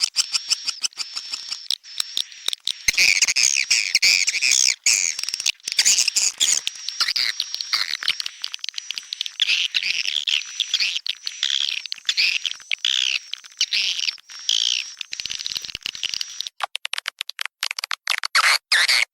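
Recorded swiftlet lure call: dense, chattering twitter of many swiftlets over a rapid run of sharp clicks, played to attract swiftlets to a nesting house. About three-quarters of the way in, the track switches to a sparser, sharper string of clicks with a thinner sound.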